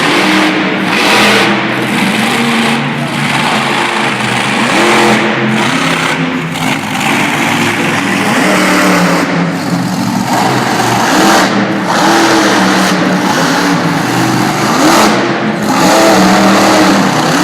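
Monster truck engine running loud, revving up and down again and again.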